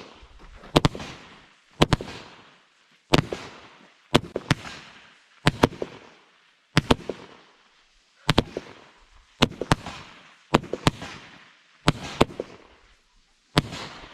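Consumer aerial firework cake firing in sequence: a string of sharp bangs about one a second, many of them close doubles, each with a rolling echo. Its shells burst to drop parachuting plastic army men.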